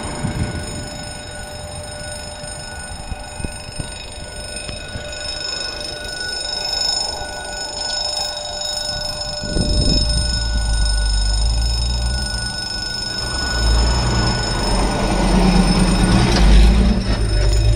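Passenger train rolling away after passing the level crossing, with a steady high ringing tone of the crossing's warning signal over it until about two-thirds through. About halfway through, a truck's engine starts rumbling low and grows louder as the truck drives past close by near the end.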